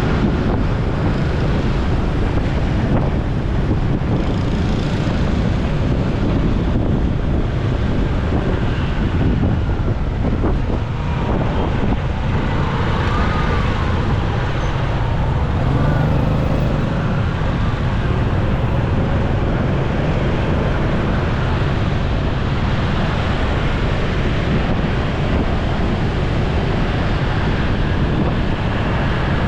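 Steady road noise recorded from a moving motorcycle: wind rushing over the microphone mixed with the bike's engine and surrounding traffic.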